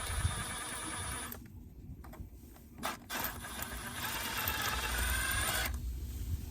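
A small motor-driven tool running in two bursts, about a second long, then, after a short pause, about two and a half seconds long.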